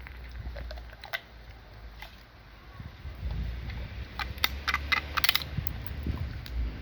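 A dog crunching a walnut in its teeth, with a quick run of sharp cracks of the shell a little past the middle.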